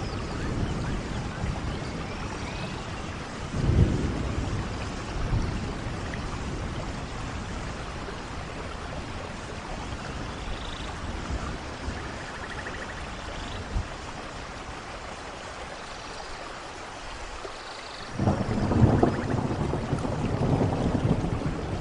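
Steady rain falling in a forest, with rolls of thunder. A short rumble comes about four seconds in, and a longer, heavier one builds from near the end.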